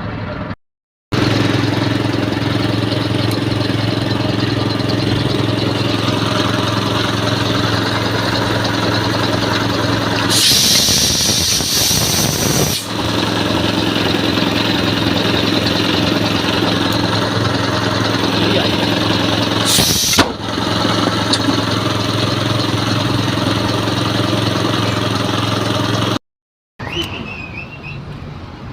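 An engine running steadily at idle. A loud hiss of about two seconds comes over it about ten seconds in, and a brief one near twenty seconds. It cuts off suddenly near the end.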